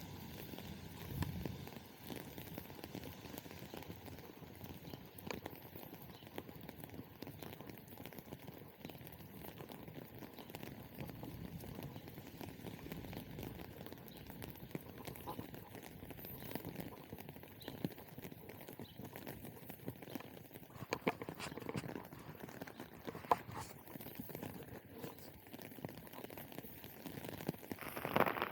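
Footsteps walking along a wet street, a run of irregular light taps over a steady hiss.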